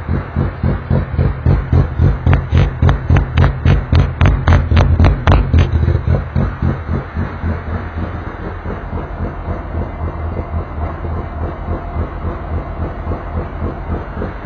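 Touring race car engine running with a pulsing, uneven idle, about three or four beats a second. From about two seconds in, sharp crackles ride on each beat for a few seconds, then it settles into a steadier, quieter idle.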